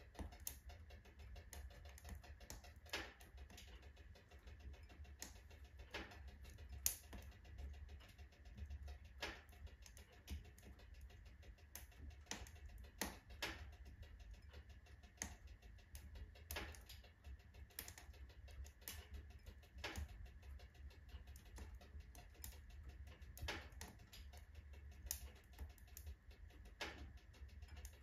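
Firewood burning in a wood stove, crackling and popping irregularly, with the louder pops coming every second or two over a low steady rumble.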